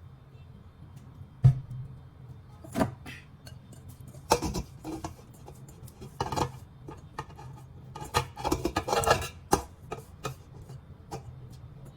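Kitchen handling sounds of ingredients and utensils going into a cooking pot: a sharp knock, then scattered clatters and scrapes, busiest in a run of quick knocks in the second half.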